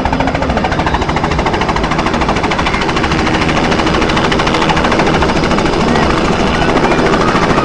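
Helicopter rotor chopping loudly in a fast, even beat.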